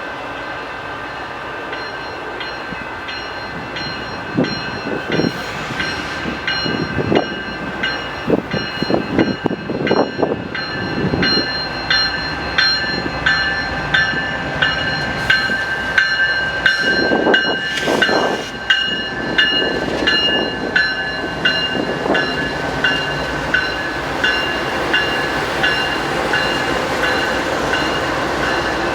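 Train passing, its wheels clicking in a steady rhythm about once a second, over a continuous rumble and a steady high ringing tone.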